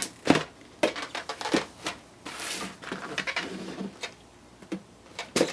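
Handling a cardboard model box with styrofoam corners and tape: scattered light knocks and clicks, with a short rasping scrape about halfway through.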